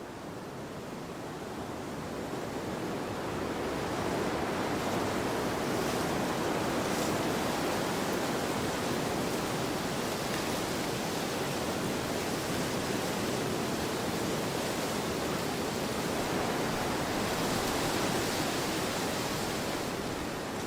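Wind blowing across an open field: a steady rushing noise that builds over the first few seconds and swells again briefly near the end.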